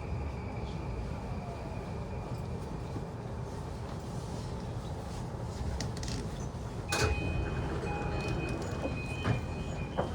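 E235-1000 series train coming to a stand: a steady rumble with a faint inverter whine from the Mitsubishi full-SiC VVVF motor car. About seven seconds in there is a sudden loud knock followed by chiming tones, typical of the doors opening with their door chime, and another knock near the end.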